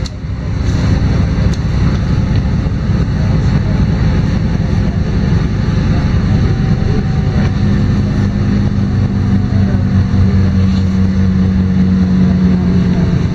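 LiAZ-5292.22 city bus's diesel engine running as the bus drives between stops, heard from inside the passenger cabin, with the engine drone growing stronger and steadier from about eight seconds in.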